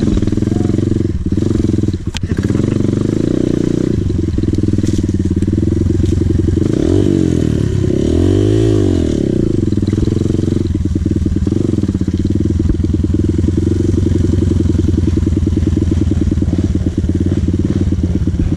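Dirt bike engine running while being ridden, its revs rising and then falling about halfway through, with a few sharp knocks early on.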